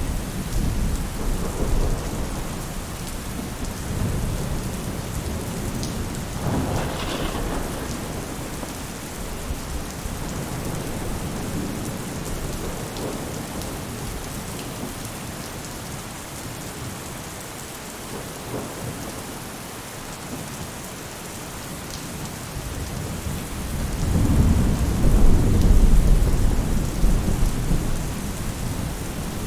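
Rain falling steadily on a roof, an even hiss, with low rolls of thunder. The loudest roll builds about 24 seconds in and rumbles for several seconds.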